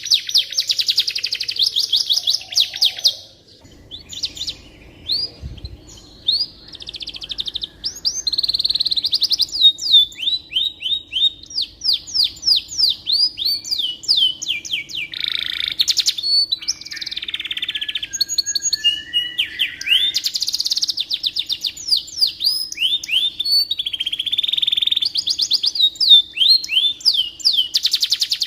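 Domestic canary singing a long, continuous song of fast trills and rapidly repeated notes, with a short pause about four seconds in.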